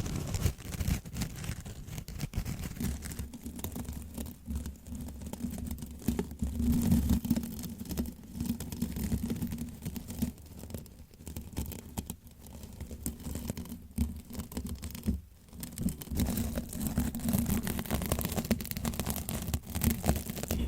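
Dense, irregular close-up scratching and crackling, typical of an ASMR trigger, over a continuous low rumble.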